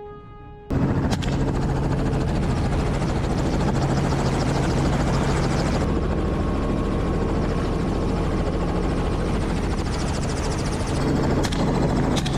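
Helicopter in flight, its rotor and engine running steadily. The sound cuts in abruptly just under a second in, and a few sharp clicks come near the end.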